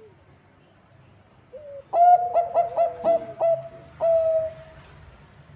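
Zebra dove of the Bangkok perkutut song strain cooing: a short lead note, then a quick run of about six staccato notes, ending in one longer held note.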